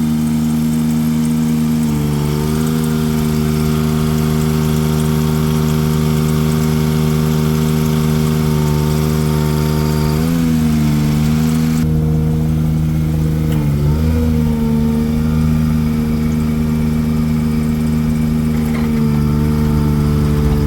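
The 8-litre gasoline V8 of a 2000 GMC C7500 bucket truck running steadily, its engine speed dipping and recovering briefly a few times. A thin hiss above it stops about twelve seconds in.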